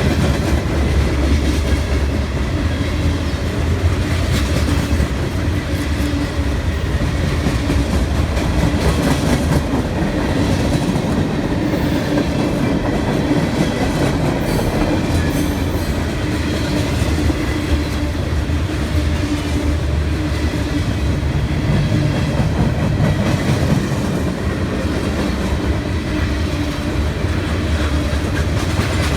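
CSX freight train rolling past, its wheels clicking over the rail joints in a steady, continuous rumble.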